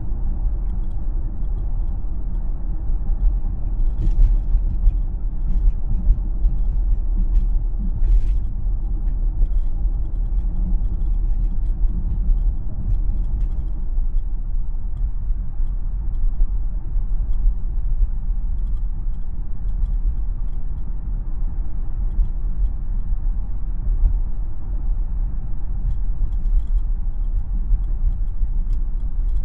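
Road and tyre noise of a Tesla electric car driving, heard as a steady low rumble inside the cabin, with a few faint ticks about four and eight seconds in.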